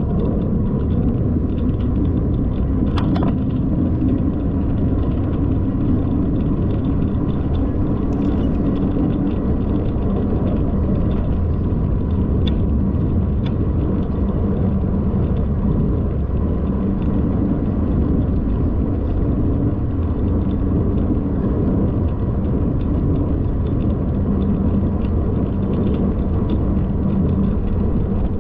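Steady low rumble of wind and motion buffeting a moving camera's microphone, with a few faint clicks.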